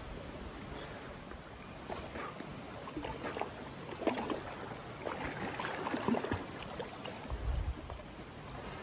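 Stream water running, with irregular splashing and sloshing from about two seconds in until about seven seconds.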